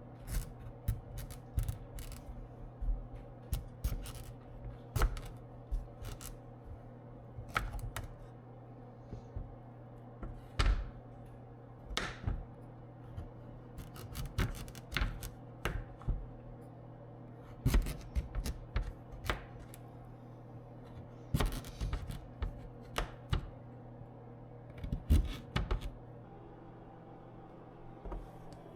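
Small household objects being handled and set down: irregular clicks, taps and knocks, a few short scrapes, and a steady low hum underneath.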